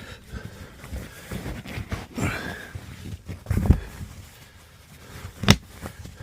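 Irregular knocks, bumps and rustling of bedding being handled as a caravan bed is made up, with two louder thumps about three and a half and five and a half seconds in.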